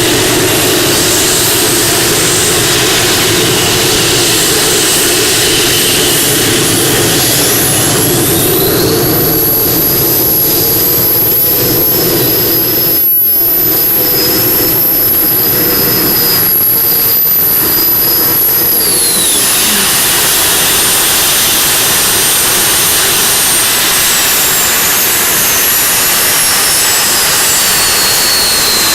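Modified-class pulling tractor running at full power during a pull: a loud, steady engine noise with a high whine that rises about eight seconds in, holds, and falls away after about twenty seconds.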